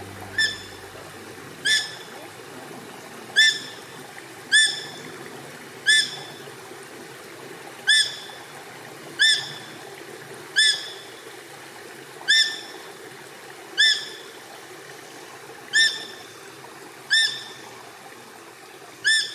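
A bird repeating one short, sharp, upward-flicking call about fourteen times, one every second and a half or so, over a faint steady woodland ambience.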